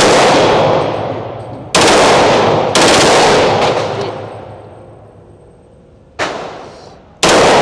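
Smith & Wesson M&P 2.0 .40 pistol fitted with a forced reset trigger (FRT) firing loud shots in quick, uneven succession, about five in all. A long echoing tail follows each shot, as in an indoor range.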